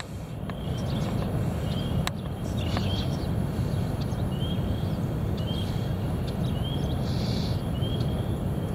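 Heavy wind buffeting the microphone: a steady, low rumble. Through the second half a short, high rising chirp repeats about once a second.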